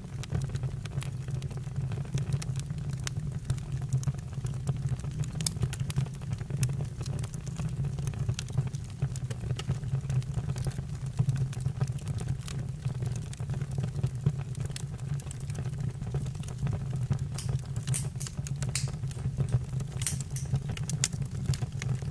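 Campfire burning: a steady low rush of flames with scattered crackles and pops, and a run of sharper pops near the end.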